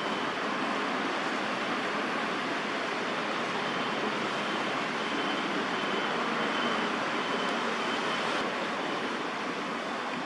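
Steady, even roar of distant city traffic, with no distinct events.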